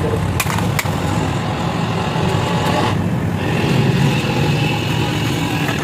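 Motorcycle engine running steadily, with two sharp clicks in the first second.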